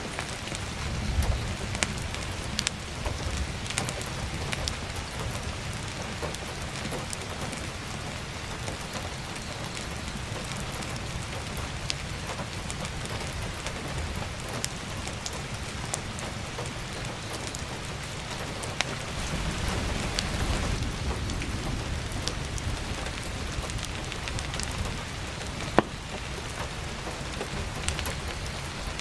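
Heavy rain falling steadily on a roof skylight, an even hiss dotted with scattered sharp crackles and pops. A low rumble swells briefly about two-thirds of the way in, and one louder sharp pop comes near the end.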